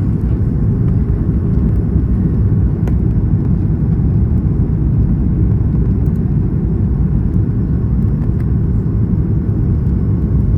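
Steady low rumble of cabin noise inside a Boeing 737 MAX 8 in descent: airflow over the fuselage with the CFM LEAP-1B engines running.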